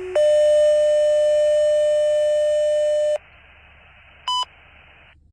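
Two-tone sequential fire dispatch page over a radio: a short lower tone steps up to a loud higher tone held about three seconds, which cuts off sharply. Quiet radio hiss follows, with one brief beep about four seconds in.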